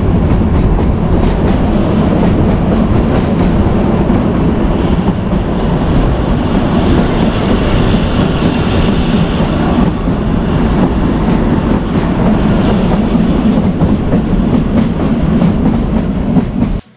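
Narrow-gauge train running steadily on the Kalka–Shimla line, heard from on board. It makes a continuous rumble with the wheels clicking over rail joints.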